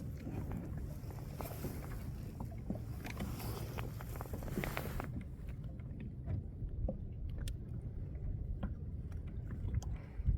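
Water sloshing against a drifting kayak's hull, with low wind rumble and scattered small clicks and knocks; a hiss in the background drops away about five seconds in.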